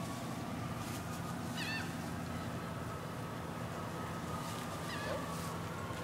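Birds calling: short, high, wavering calls about two seconds in and again near five seconds, over a steady low hum.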